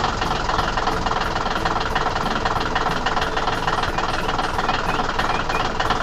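A machine running with a steady, dense rattling noise.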